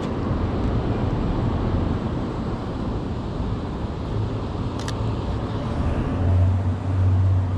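City street traffic noise: a steady rush of passing vehicles, with a low engine hum growing louder from about six seconds in and a single faint click about five seconds in.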